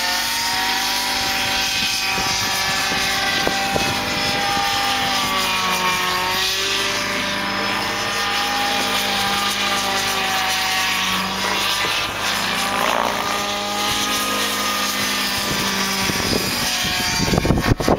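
Radio-controlled model helicopter flying, its engine and rotor tones wavering gently up and down in pitch. Wind buffets the microphone near the end.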